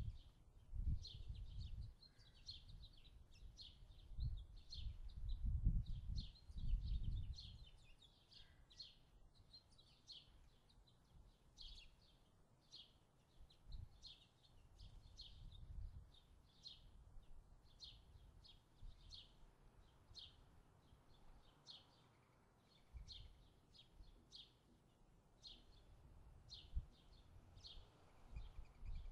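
A long run of short, high, bird-like chirps, about two a second, with low rumbling thumps during the first several seconds.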